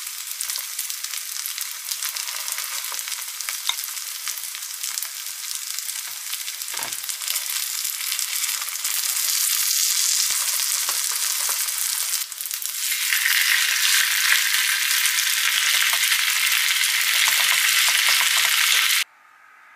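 Chive pancakes sizzling and crackling as they fry in a pan. The sizzle gets louder in two steps through the middle and then stops abruptly near the end.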